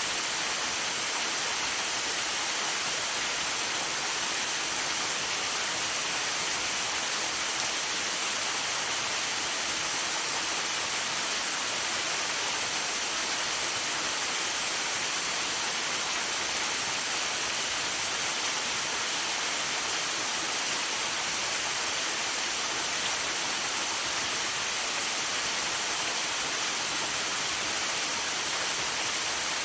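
Waterfall rushing steadily, mixed with falling rain and sleet: an even, unbroken hiss, strongest in the high range.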